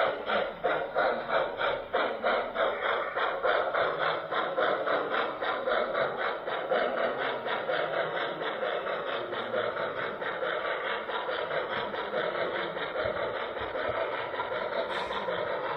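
HO-scale model train running around the layout, with an even beat of about four to five strokes a second that blurs into a steadier running noise in the second half.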